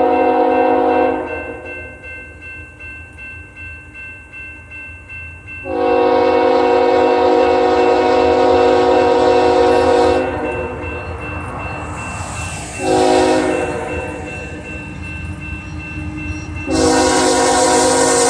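A GE Evolution-series diesel locomotive's air horn sounding the grade-crossing signal, long, long, short, long, over the steady rumble of a heavy freight train rolling by. The last blast carries on past the end.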